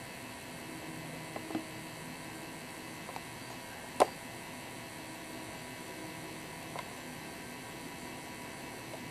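Steady hiss and low hum of room tone, with a few soft clicks and one sharp click about four seconds in.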